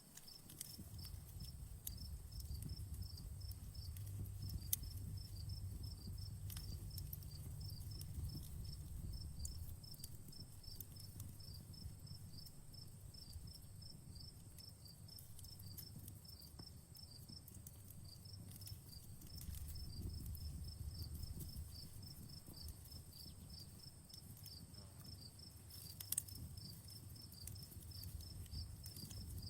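Outdoor campfire crackling, with scattered sharp pops, two of them louder (about five seconds in and near the end), over a low rumble. Insects chirp steadily throughout in a rapid, high pulsing.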